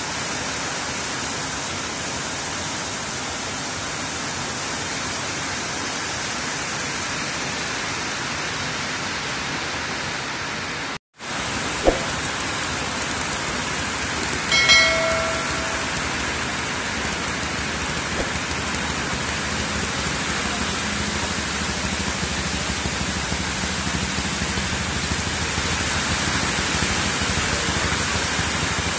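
Steady rain, an even hiss. The sound drops out for an instant a little over a third of the way in, and about halfway through a short pitched tone rises briefly above the rain.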